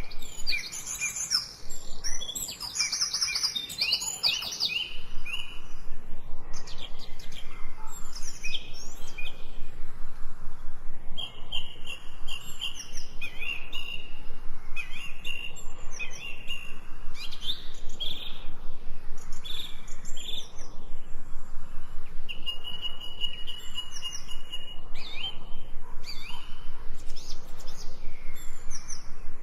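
Several songbirds chirping and singing, a dense overlapping chorus of calls in the first few seconds, then scattered chirps and short level trills.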